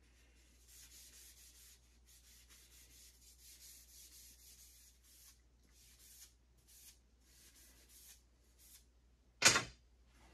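A cedar arrow shaft being hand-sanded: a series of rubbing strokes of uneven length, then one sharp knock near the end, the loudest sound.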